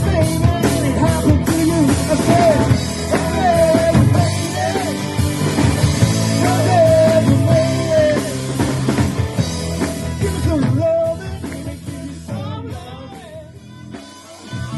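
A live rock band playing, with drums and bass under a lead melody that bends and wavers. The music drops quieter near the end.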